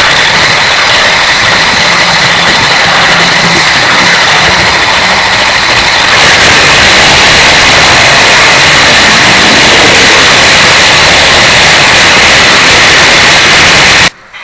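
Model train running close by on its track: a loud, steady rolling rattle of wheels on rails with a high motor whine. It cuts off abruptly near the end.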